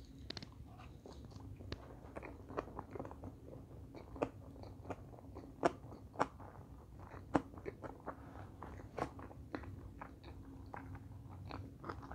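A person chewing a mouthful of salmon sushi roll: a run of irregular sharp clicks and crunches, the loudest a little past the middle.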